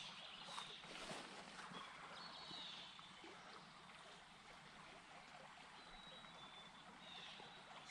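Near silence: faint outdoor ambience with a few brief, high bird chirps and a couple of soft rustles.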